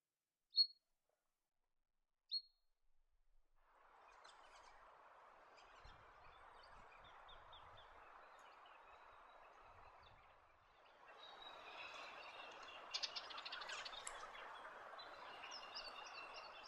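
Two short, high bird chirps, then a steady background hiss with faint small-bird calls over it, which grows louder with more calls about eleven seconds in.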